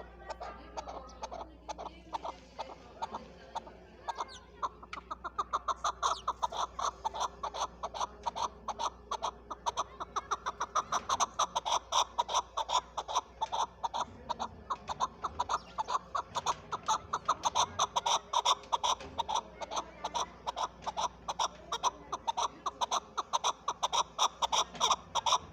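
Chukar partridge calling: a long run of sharp, clucking notes, several a second. The notes come sparsely at first, then grow dense and loud about four to five seconds in.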